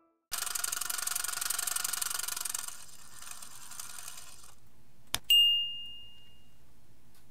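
Sound-effect sting: a dense rapid rattle, like a ratchet or gears, for about four seconds, then a click and a bright bell-like ding that rings out.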